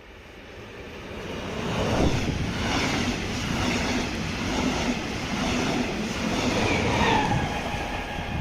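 DB Class 146 electric locomotive approaching and passing at speed: the running noise swells over the first two seconds, then stays loud, with an electric whine that drops in pitch about seven seconds in as it goes by.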